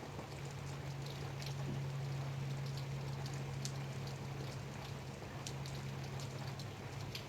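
Light rain falling, with scattered single drops ticking sharply over a soft, even patter. A steady low hum runs underneath.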